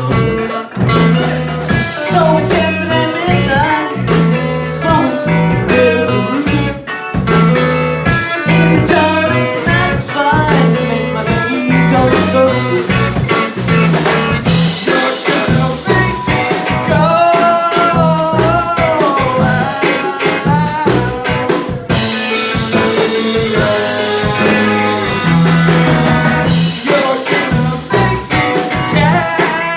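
Rock band playing a psychedelic jam, with guitar lines over bass and drum kit.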